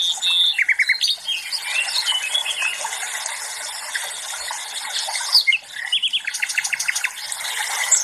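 Several songbirds singing and chirping together, overlapping trills and calls, with a quick run of repeated short notes about a second in and another near the end.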